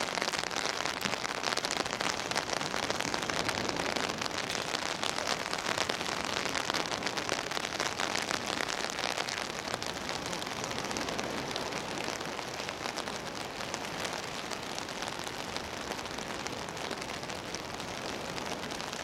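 Steady rain falling, a dense patter of drops on nearby surfaces, easing a little in the second half.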